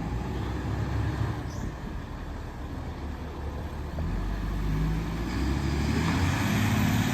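Fire engine's diesel motor running with a low rumble, getting louder in the second half as the truck draws near.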